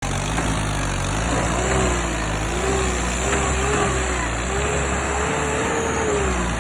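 Tractor engine running steadily under load, with a wavering whine above the low engine note.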